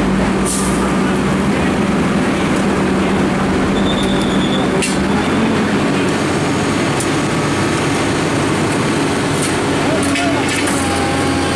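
Heavy diesel engine running steadily under a wash of noise, its hum dropping in pitch about halfway through, with people's voices talking in the background.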